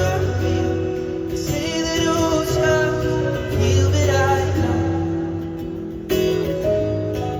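Live pop song: a male voice singing over acoustic guitar, with held notes. The sound changes abruptly a little after six seconds.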